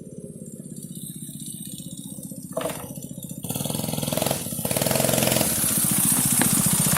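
Honda-powered minibike's small single-cylinder engine running with an even firing beat, getting clearly louder about halfway through.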